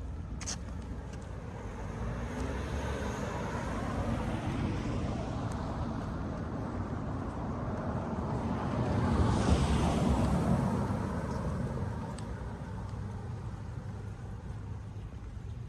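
A car passing on the street: road and tyre noise that swells to its loudest a little past the middle, then fades away.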